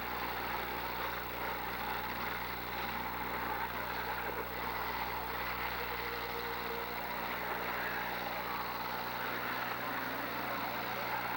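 Demolition derby cars' engines running together as a steady, even engine noise, with no sharp crash standing out.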